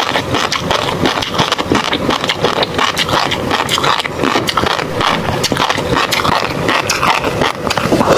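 Close-miked chewing of tobiko (flying fish roe): a dense, continuous stream of small pops and crackles as the eggs burst between the teeth.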